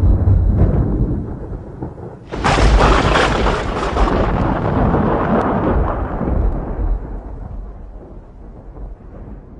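Thunder: the tail of a low rumble fades out, then about two seconds in a sudden sharp thunderclap breaks into a long rolling rumble that dies away over the next several seconds.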